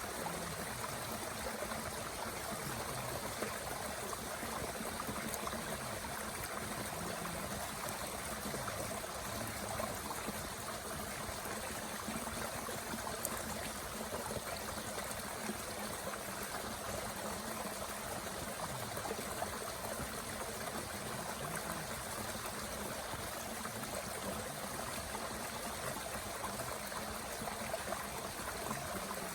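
Mountain stream running steadily, a constant rush of water, with a few faint snaps from a small wood fire burning in a Bushbox stove.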